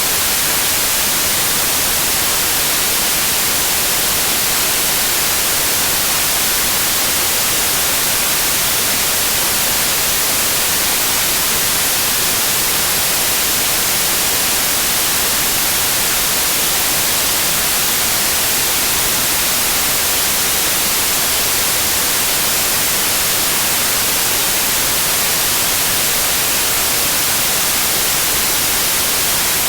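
Steady white noise: an even, unbroken hiss, bright and strong in the treble, with no change in level.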